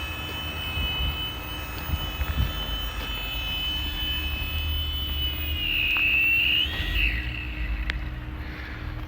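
Toy helicopter giving a steady high-pitched whine, which wavers up and down in pitch about six seconds in and then fades, over a low rumble.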